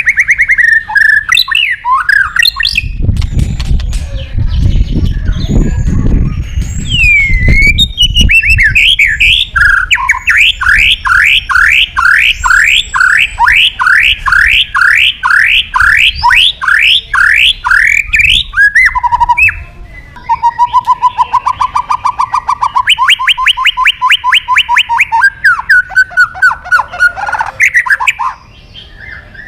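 White-rumped shama (murai batu) singing loudly in a varied song of whistled phrases, including a long run of quick rising notes, a few each second. A low rumble sounds under the song about three to eight seconds in.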